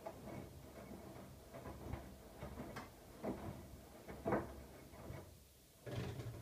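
Siemens iQ700 front-loading washing machine in its wash cycle: the drum turns with irregular soft knocks and swishes of wet laundry, stops briefly near the end, then the motor starts again with a steady hum.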